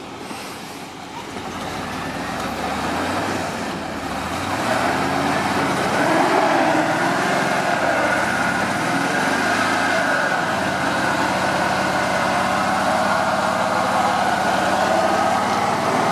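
Truck engine revving as a tyre spins on ice without grip, a steady drone and whine that builds over the first few seconds and then holds: the truck is stuck and cannot get traction.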